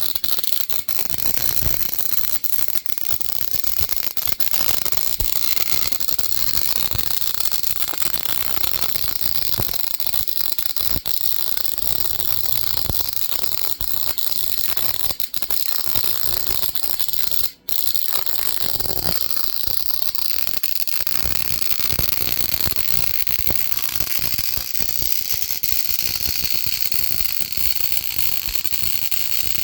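Rapid, irregular crackling and hiss of high-voltage spark and corona discharges from a 7,500-volt neon-sign-transformer spark machine. It cuts out for a moment about two-thirds of the way through.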